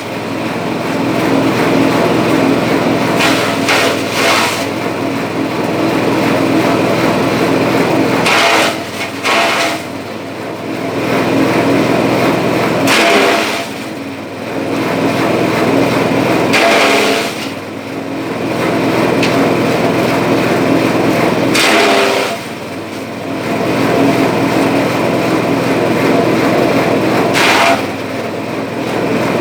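Small engine-driven grass chopper for livestock fodder running steadily, with about six short louder bursts of chopping noise every four or five seconds as grass goes through the blades.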